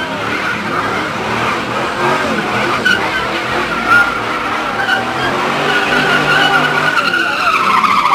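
Car tyres squealing under sustained wheelspin as the car drifts, with the engine revving underneath.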